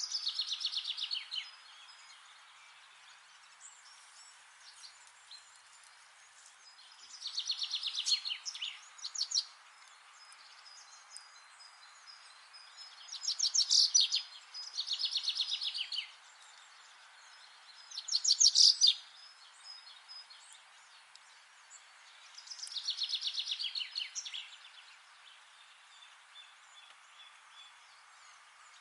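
A songbird singing short, rapid trilled phrases, one every four to five seconds, over a steady background hiss.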